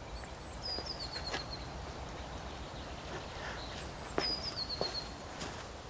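A songbird singing a short phrase of high notes that step down in pitch, twice, about four seconds apart, over a steady soft background hiss with a few faint ticks.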